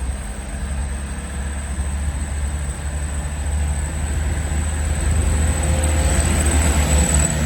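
Heavy truck engine running with a deep, steady rumble, growing louder over the last couple of seconds.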